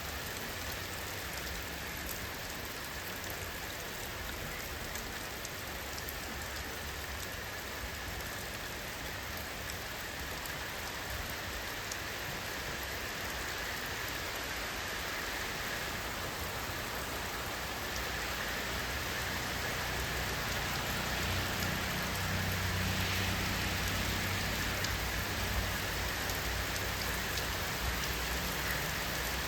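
Steady rainfall: an even hiss of rain pattering on surfaces with scattered individual drops. A low rumble swells in the second half.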